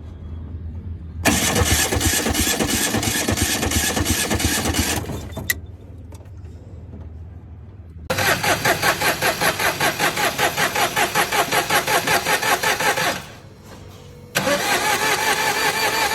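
A car engine being cranked by its starter in three separate attempts of a few seconds each, with a rhythmic chugging of about four beats a second. Each attempt stops and the level falls back, without the engine running on.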